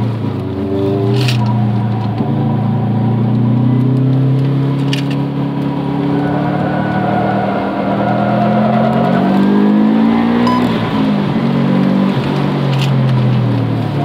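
Car engine heard from inside the cabin, revving through the gears while driving on a track: the note holds, climbs steeply for a few seconds, drops abruptly about eleven seconds in at a gear change, then climbs again. A few light clicks are heard.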